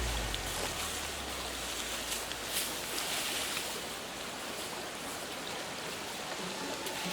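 A steady hiss of water, such as rain or a running stream, with a few faint ticks. Low background music fades out at the start and comes back faintly near the end.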